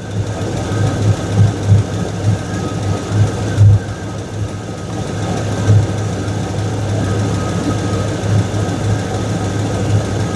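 2002 Chevrolet Silverado engine idling after sitting unstarted for months, with an audible exhaust leak that the owner traces to a V-band clamp not seated all the way around.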